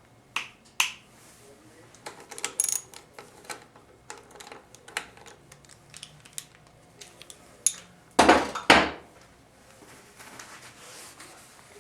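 Small metal 4L60E valve-body parts clinking and tapping against each other and the bench as they are handled, in a scattered run of sharp clicks. About eight seconds in comes one louder, rougher clatter lasting under a second.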